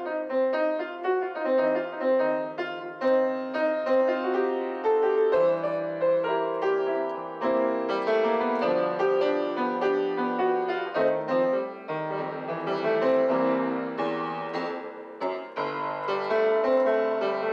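Piano playing a C blues passage, with low chords held under a moving right-hand line of blues notes.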